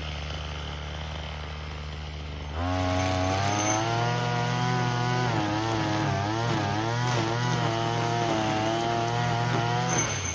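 Brush cutter engine spinning a nylon trimmer line: idling for about two and a half seconds, then throttled up to high speed, its pitch wavering up and down under load as it cuts weeds. It drops back toward idle at the very end.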